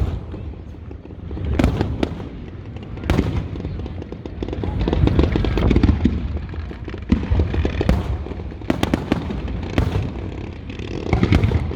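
Fireworks show: aerial shells bursting in a rapid run of sharp cracks and booms over a continuous rolling rumble, with a dense cluster of cracks in the second half.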